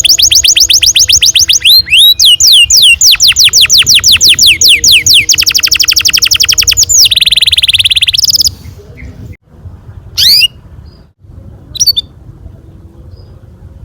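Domestic canary singing a long rolled song: fast repeated falling trill notes, about eight a second, that run into a dense buzzing roll, then stop about two-thirds of the way through, followed by two short single chirps.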